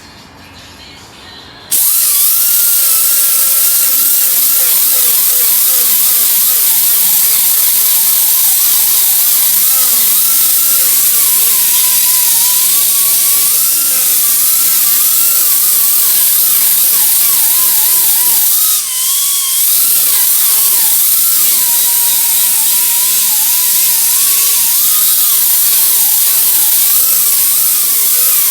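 Electric grinder running continuously against metal, its pitch wavering up and down as the load changes. It starts about two seconds in and dips briefly about two-thirds of the way through.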